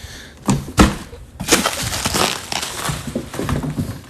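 Large cardboard box being knocked and rustled: two sharp thumps in the first second, then a stretch of crinkling and scraping cardboard with smaller knocks.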